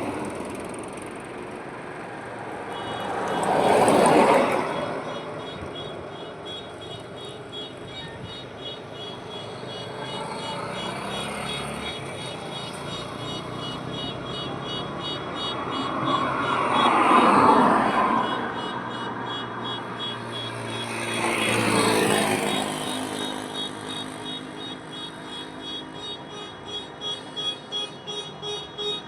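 Highway traffic: steady road noise with vehicles passing close, three times louder than the rest, about 4, 17 and 22 seconds in. Near the end an evenly pulsing beeping tone, about three beats a second, rises over the traffic.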